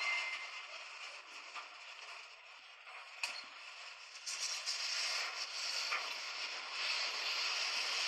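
Train running on the rails: a steady rushing noise with creaks and a few sharp clicks, growing louder about four seconds in.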